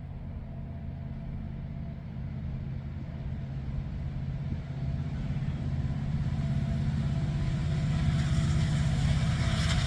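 Approaching freight train's diesel locomotives, a low engine rumble growing steadily louder as the train draws near.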